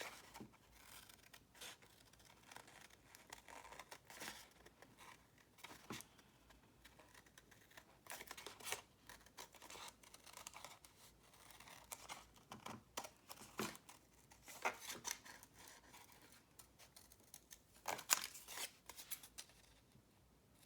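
Scissors snipping through collaged book-page paper glued on coffee-dyed paper and sealed with Mod Podge, cutting out a bird shape: faint, irregular snips with pauses between them, the loudest few near the end.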